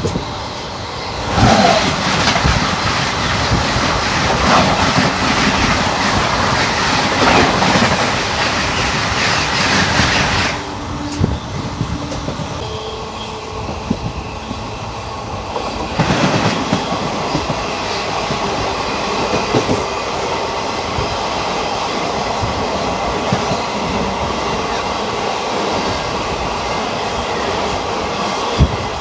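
Indian express train passing through a station at speed, its coach wheels clattering over the rail joints. The clatter comes in suddenly about a second and a half in and is loudest for the next nine seconds, then drops to a lower, steadier rumble.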